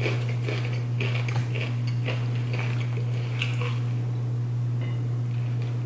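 Close-up chewing of crunchy Doritos tortilla chips, a quick run of short crunches that stops about three and a half seconds in, followed by a few faint sips from a plastic drink bottle. A steady low hum runs underneath and is the loudest thing throughout.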